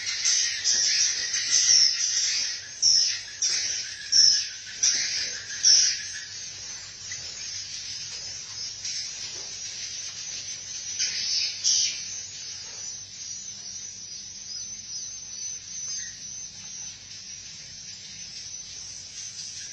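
Edible-nest swiftlets chirping and twittering, a dense run of loud chirps over the first six seconds, then a quieter, steady high chatter with a short louder flurry about twelve seconds in.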